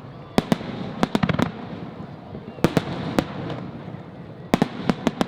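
Aerial firework shells bursting in a finale barrage: clusters of sharp bangs, several close together at a time, over a steady haze of background noise.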